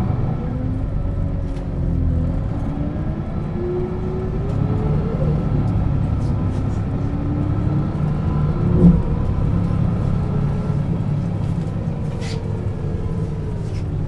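1996 Setra S 315 UL bus's diesel engine and ZF gearbox under way, the drivetrain whine rising in pitch twice as the bus accelerates through the gears, then levelling off and falling as it slows. A single thump about nine seconds in.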